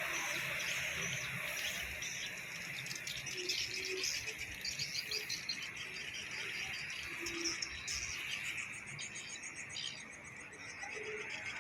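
Swiftlets chirping: many quick, overlapping high twitters over a steady high hiss.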